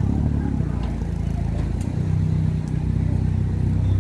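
A motor vehicle's engine running steadily close by, a low, even hum of street traffic.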